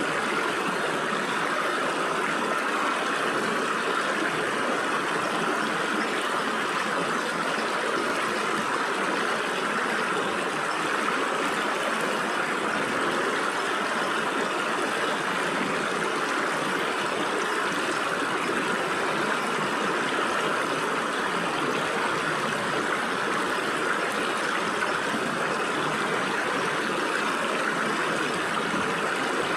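Stream water flowing and splashing through gaps between rocks, a steady even rush.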